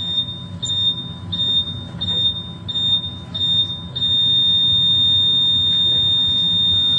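High-pitched electronic beeper sounding in short beeps about one and a half times a second, then holding one continuous tone from about four seconds in, over a low engine rumble.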